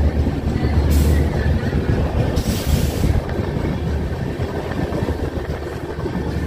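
Express passenger train running at low speed as it pulls out of a station, heard from an open coach doorway: a steady low rumble of the coach and wheels on the rails, with short hissing bursts about one second in and again around two and a half seconds.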